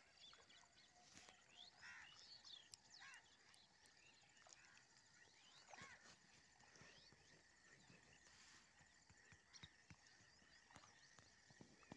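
Faint birds chirping and calling in short scattered notes, over a steady high whine.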